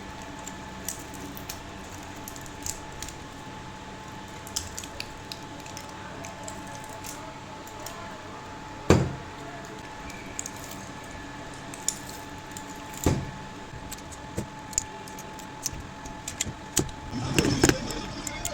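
Scattered metallic clicks, taps and clinks of hand tools working on an electric motor's stator, pulling out the old copper winding wire. There are two louder knocks, about nine and thirteen seconds in, and a burst of clattering near the end.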